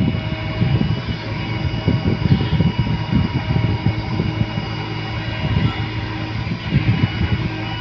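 JCB backhoe loader's diesel engine running steadily while digging and loading soil, with thin steady whine tones above the engine.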